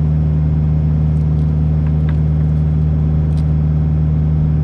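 Kubota U55-4 mini excavator's diesel engine running at a steady speed, with a few faint clicks over it.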